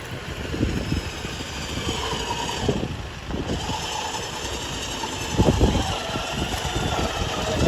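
Four-wheel-drive vehicle's engine running as it drives off-road, with a low rumble and frequent irregular knocks and jolts; heavier thumps start about five and a half seconds in.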